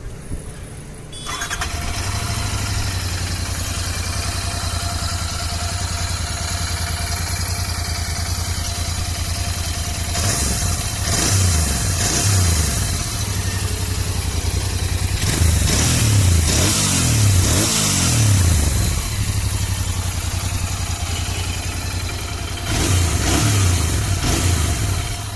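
Royal Enfield Interceptor 650's 648 cc parallel-twin engine on its stock exhaust, idling with a steady low rumble that comes in about a second in. The throttle is blipped in a few bursts of revs around the middle and again near the end.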